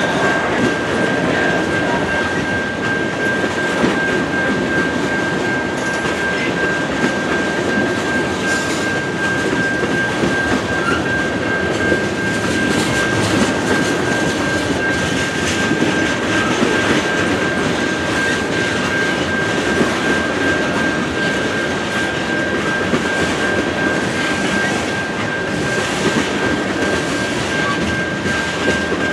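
A freight train of tank cars rolling steadily through a crossing, its wheels running on the rails, while the crossing's low-tone Siemens electronic bell rings without a break.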